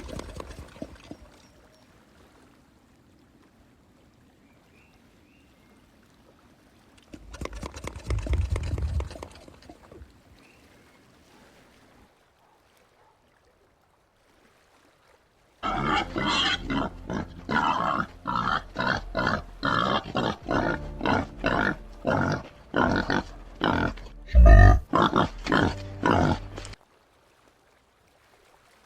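White-lipped peccary grunting: a short burst of sound about eight seconds in, then, after a pause, a long run of evenly spaced loud grunts, about two a second, that stops shortly before the end.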